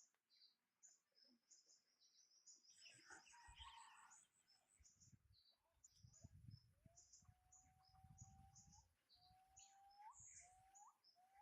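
Faint birdsong: short high chirps repeating throughout, and from about seven seconds in a longer whistled note that ends in an upward flick, coming faster near the end.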